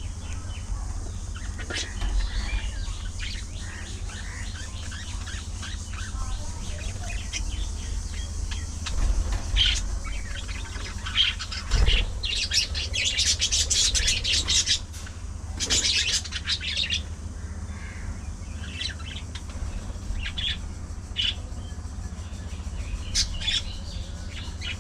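A flock of budgerigars chattering with many quick, high chirps and warbles. About halfway through come two louder stretches of rustling flutter, over a steady low hum.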